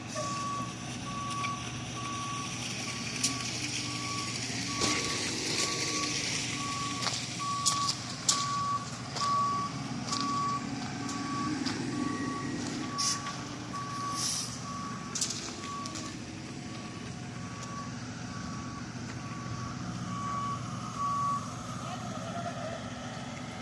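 Truck backup alarm beeping about once a second over a running diesel engine, stopping shortly before the end, with scattered knocks and scrapes of work around it.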